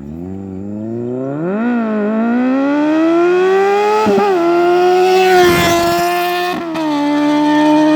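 Kawasaki Z800 inline-four through an aftermarket Rockvan exhaust, accelerating and getting louder. The pitch climbs steadily, then dips briefly at gear changes about four seconds in and again about six and a half seconds in.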